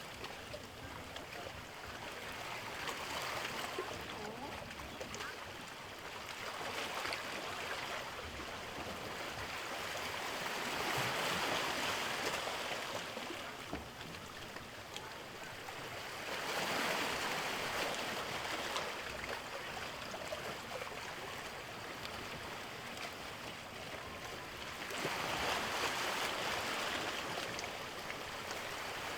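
Sea waves washing in and drawing back, a steady rushing hiss that swells and fades, with three bigger surges several seconds apart.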